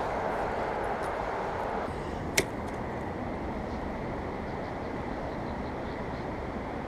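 Steady rush of flowing creek water, with a single sharp click about two and a half seconds in.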